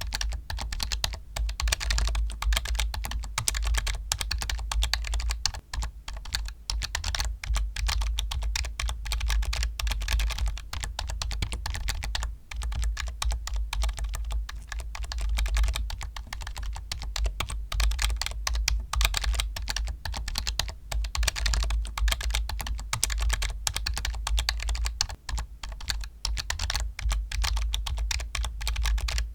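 Continuous fast typing on a computer keyboard: a dense run of key clicks, broken only by a few brief pauses.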